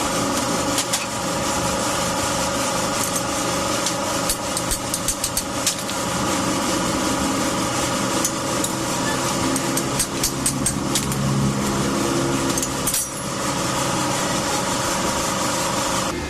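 A small machine or engine running steadily, with many short metallic taps or clicks over it.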